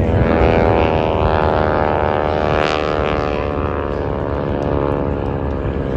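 Radial piston engines of a warbird formation, a Grumman TBM Avenger flanked by North American T-6 Texans, flying past. The many-toned propeller drone swells to its loudest about two and a half seconds in, then drops in pitch as the aircraft pass.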